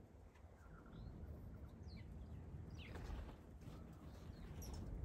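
A few short, high bird chirps, one a quick falling sweep about three seconds in, over a faint low outdoor rumble.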